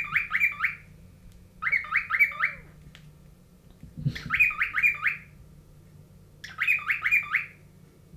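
Cockatiel chirping in short bursts of four or five rapid notes, each burst under a second long and repeated about every two to three seconds.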